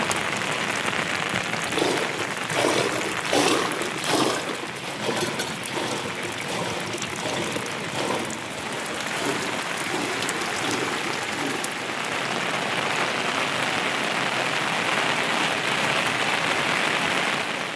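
Heavy monsoon rain falling steadily. A few short, louder sounds stand out over the rain between about two and five seconds in.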